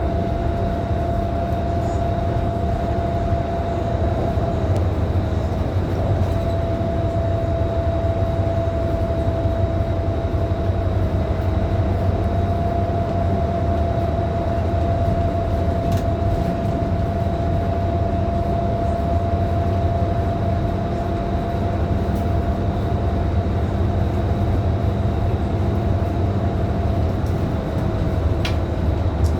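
Scania K310IB city bus heard from inside the cabin while driving, with a steady low engine and road rumble and a constant whine above it.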